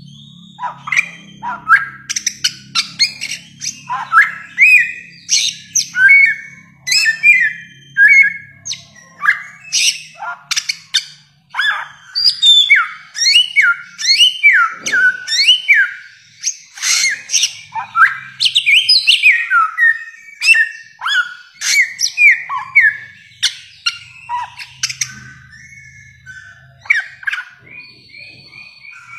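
Bare-throated whistler (samyong) singing a long, fast, varied song: a dense run of sharp slurred whistles and chirps, many sweeping up or down, with barely a pause between them.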